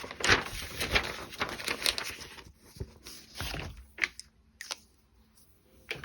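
Paper rustling and crinkling for about two and a half seconds, then a few light clicks and knocks of small parts being handled.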